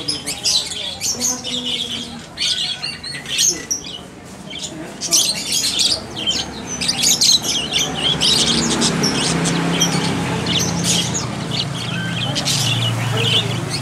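Many caged songbirds chirping and squawking in short, overlapping calls. About eight seconds in, a low steady hum joins underneath.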